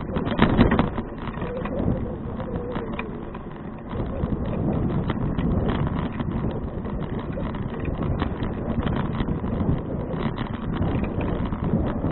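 Wind buffeting an action camera's microphone on a moving bicycle, with many small knocks and rattles throughout. A louder gust comes about half a second in.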